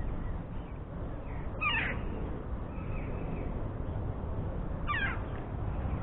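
Two short bird calls, about three seconds apart, over a steady low background rumble.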